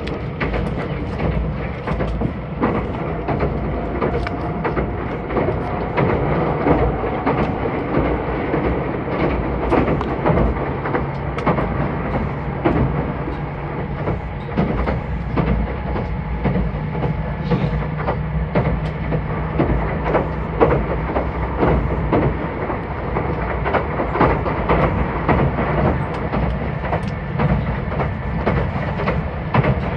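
Meitetsu 2000 series μSKY electric train running along the line, with a steady running noise and frequent clicks of the wheels over the rail joints.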